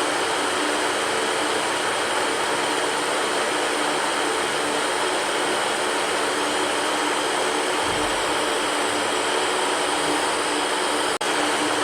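A fan running steadily: an even whooshing airflow noise with a faint hum under it. The sound drops out for an instant near the end and then resumes unchanged.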